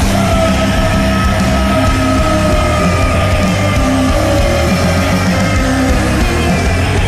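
Loud, heavy distorted rock with guitars, bass and drums, with one high note held over it.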